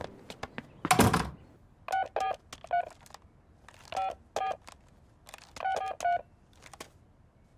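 Push-button telephone keypad beeps as a number is dialled: about eight short tones in groups of three, two and three. A short noisy clatter comes about a second in.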